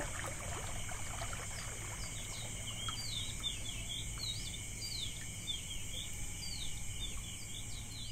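Birds chirping in quick, short falling notes again and again over a steady high-pitched drone.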